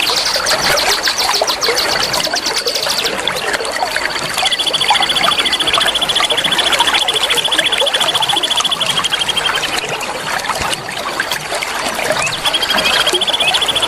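Many songbirds chirping together over a steady rush of flowing water, with long, high, rapid trills running through. One trill stops about three seconds in and a lower one starts soon after, then returns near the end.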